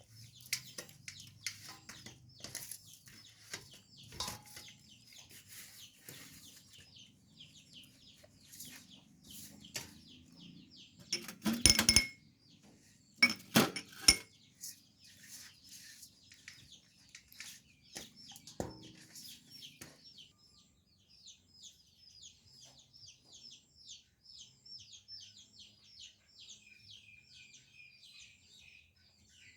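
Dishes and metal utensils clinking and knocking during food preparation, with two louder clatters around the middle. Through the second half a rapid, even series of short high chirps, several a second, runs on.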